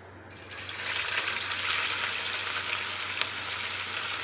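Raw chicken pieces frying in hot cooking oil in a pan: the sizzle starts about half a second in as the chicken goes into the oil, then holds as a steady hiss with a few small pops.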